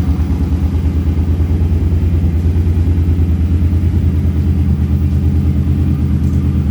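2009 Suzuki M50's V-twin engine idling steadily with an even exhaust pulse, no bubbling or puffing on the low end: running well after its fuel injectors were pulled and cleaned.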